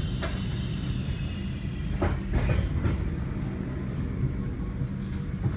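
Cabin sound of a Sprinter Light Train electric train standing at a stop: a steady low hum from the train's equipment, with a short run of knocks and clatters about two seconds in.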